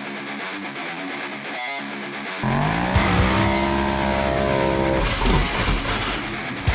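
Guitar music, thin-sounding at first; about two and a half seconds in, a car engine comes in suddenly and revs up over it, its pitch rising and then holding, with a sharp hit near the end.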